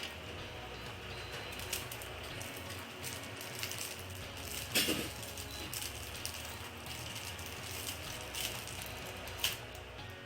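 Scattered small clicks and taps, the loudest about five seconds in, over a steady hiss: small electronic parts and tools being handled at a workbench.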